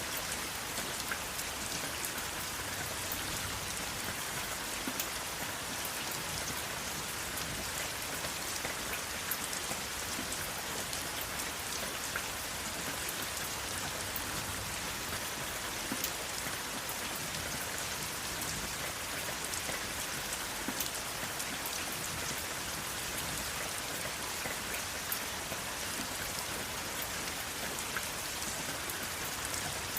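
Steady rain falling, an even hiss peppered with many small drop impacts.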